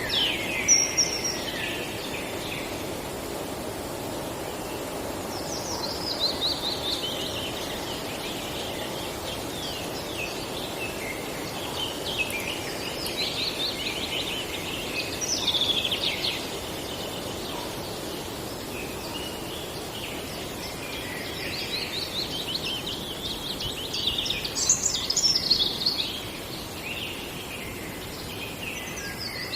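Songbirds singing in a forest: phrases of quick, falling notes lasting a few seconds each, repeated several times with pauses between. Under them runs a steady low background noise.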